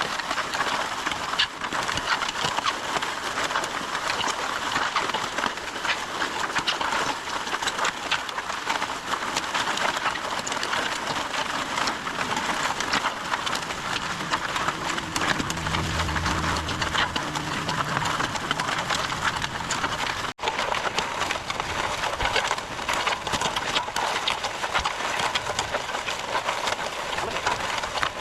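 MudMixer concrete mixer running, a steady dense rattling noise, with a short low hum about halfway through.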